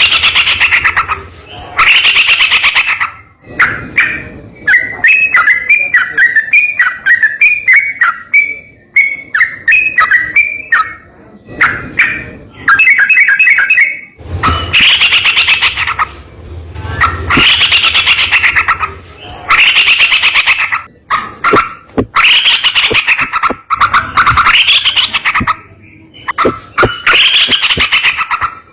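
Yellow-vented bulbul (trucukan) singing loudly: rich bubbling phrases come every two seconds or so, with a long run of quick, short chattering notes in the middle.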